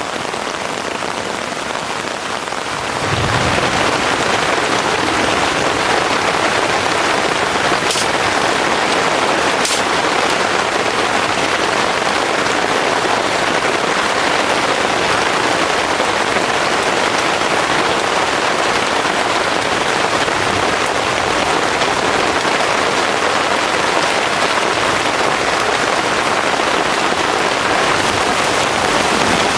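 Heavy rain pouring steadily, growing louder about three seconds in, with a couple of faint sharp ticks.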